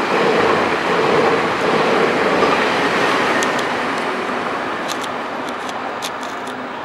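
Taiwan Railway E1000 push-pull express passing: a steady rumble and rush of steel wheels on rail from the orange coaches, fading slowly as the rear power car goes by and the train draws away. A few faint clicks come in the second half.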